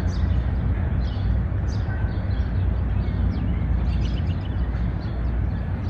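Park ambience in a city: a steady low rumble of traffic, with many small birds chirping in short, high calls scattered throughout.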